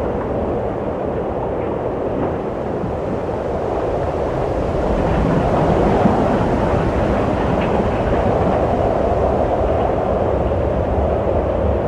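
Wind blowing steadily, a low rushing sound that swells about five seconds in and holds.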